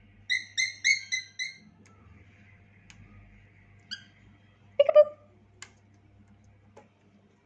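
Cockatiel chirping: a quick run of five short whistled notes, then a single short note, then a falling voice-like call about five seconds in. A faint steady low hum runs underneath.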